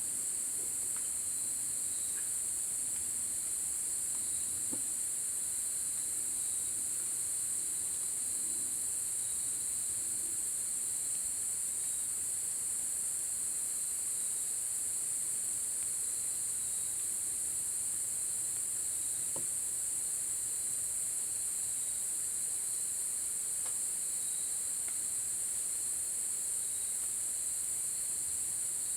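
Steady, unbroken chorus of singing insects, high and shrill, with a second thinner, slightly wavering trill a little lower in pitch. A few faint ticks are scattered through it.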